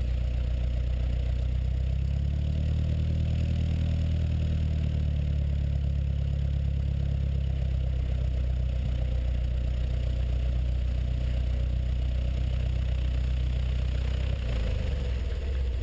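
Continental O-200 flat-four aircraft engine of a Zenith light sport plane running steadily at low power. Its low drone shifts slightly in pitch about two seconds in and changes again near the end.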